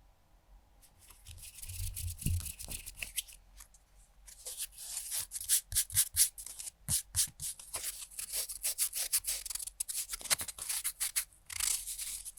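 Nail file rasping across fingernails in quick, short, scratchy strokes. A brief burst of strokes starts about a second in, then a short pause, then a longer, faster run of filing.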